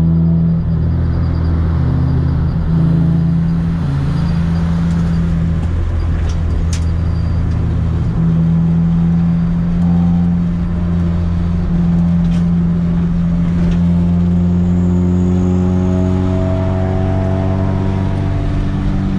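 Four-cylinder engine of a Honda Civic EK4 race car heard from inside the cabin, droning steadily while driving on the road. Its pitch drifts up and down, then climbs gradually in the last few seconds as the car accelerates.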